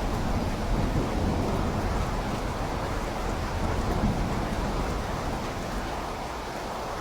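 Steady rain falling, with a low rumble underneath that dies away about five seconds in.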